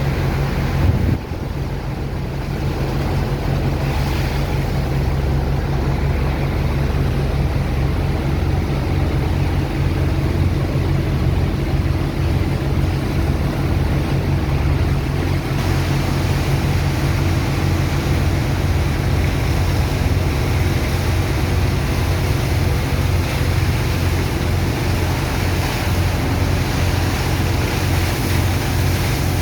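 Sand dredger's pump engine running steadily with a low hum, over the constant rush of water and sand slurry being pumped. There is a brief dip in level about a second in.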